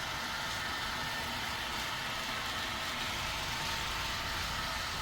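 HO-scale model trains running on the layout: a steady, even whir of small motors and wheels on track.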